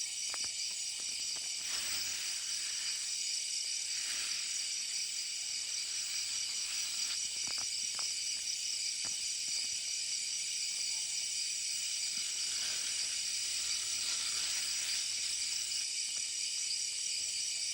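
Steady, high-pitched chorus of night insects, with a few faint rustles and ticks about halfway through.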